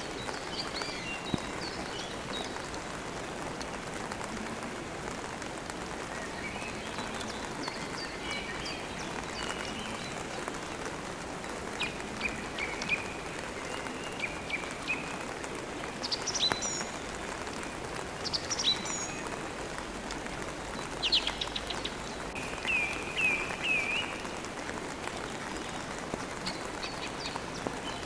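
Steady rain with songbirds chirping and twittering over it in short phrases, the bird calls coming more often in the second half.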